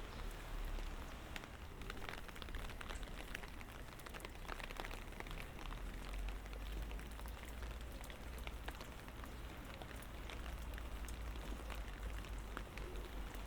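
Light rain falling: a steady hiss of rain with many small, scattered drop ticks and a low steady rumble beneath.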